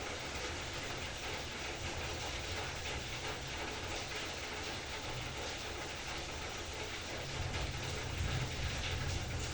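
Heavy rain falling steadily, an even hiss of many drops. A low rumble swells underneath it near the end.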